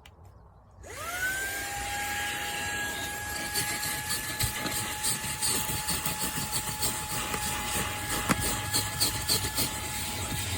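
Fanttik Slim V8 Apex handheld vacuum switched on about a second in. Its motor spins up with a quick rising whine, then runs steadily with a high whine over a rush of air.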